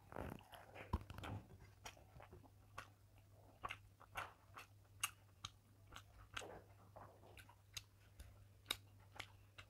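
Close-miked chewing of a mouthful of rice and fish: a steady run of short, sharp, wet mouth clicks and smacks, a few a second.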